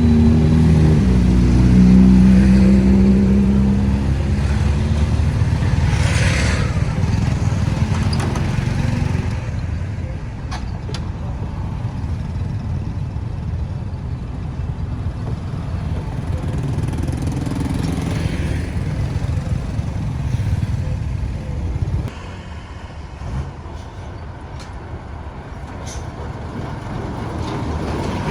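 Road traffic: a vehicle's engine running close by at a steady pitch for the first few seconds, then fading into general traffic noise, with other vehicles passing about six and eighteen seconds in.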